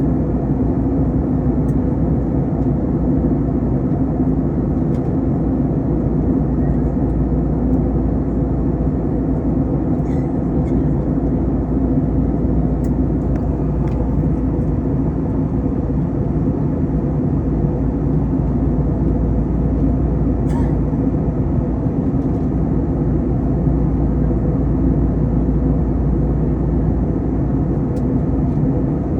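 Steady drone of an Airbus A321 airliner in flight on descent, engine and airflow noise heard inside the cabin, with a few faint clicks.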